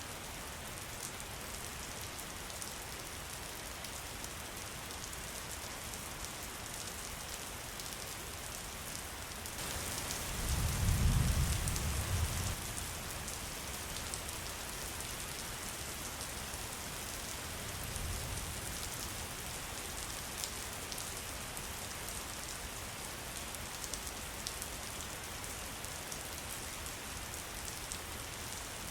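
Steady rain, an even hiss throughout, with a low rumble swelling about ten seconds in and a fainter one around eighteen seconds.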